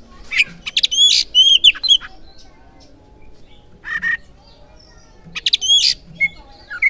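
Oriental magpie-robin calls: sharp, short, hooked notes given in three quick clusters, the first about the first two seconds long, one brief burst near the middle, and another run near the end.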